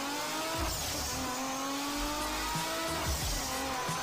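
Race-car engine revving in an intro sound effect, its pitch climbing in long sweeps that start over twice.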